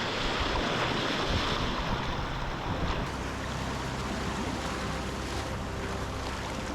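Rushing whitewater of small river rapids as a kayak runs through the waves, with wind rumble on the microphone. The rush is a little louder in the first three seconds.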